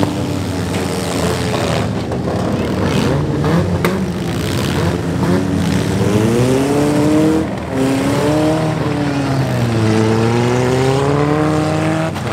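Demolition derby car engines revving, the pitch climbing and falling again several times, with a few sharp knocks in the first few seconds.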